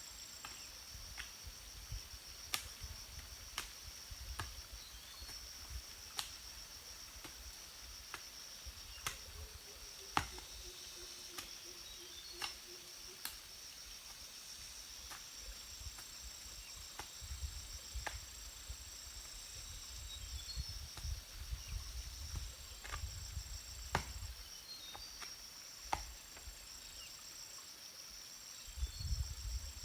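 Insects, crickets or similar, trilling steadily in a high-pitched, pulsing buzz, with a second, higher trill that starts and stops. Scattered sharp clicks sound at irregular intervals over the top.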